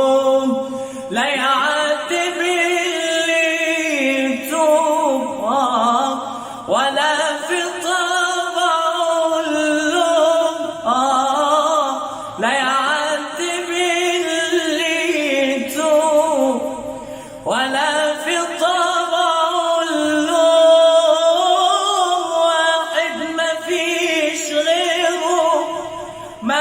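Male voices singing an Arabic song melody a cappella, several voices layered, with long gliding ornamented notes and no drums.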